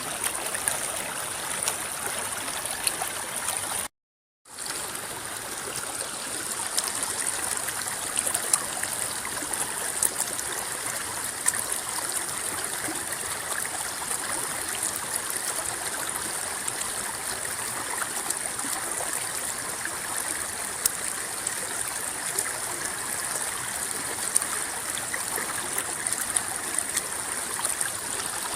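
River water rippling and babbling steadily, with many small splashes and drips. The sound cuts out completely for about half a second a few seconds in, then fades back.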